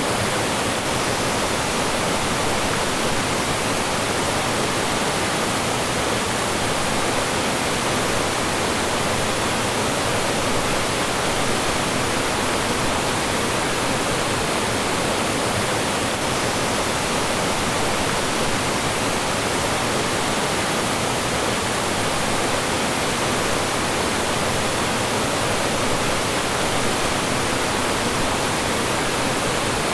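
Mountain stream rushing and splashing over rocks in a steady, unbroken wash of water noise.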